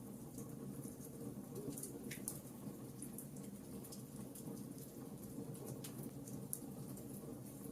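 Logs burning in a fireplace: scattered sharp crackles and small pops over a steady low rush of flames.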